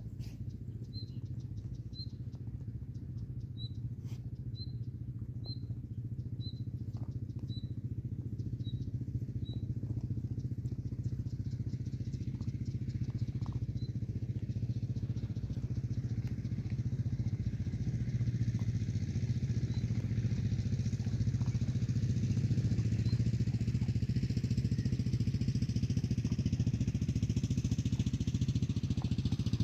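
An engine running steadily with a low hum that slowly grows louder. A bird chirps about once a second during the first ten seconds, with scattered small clicks.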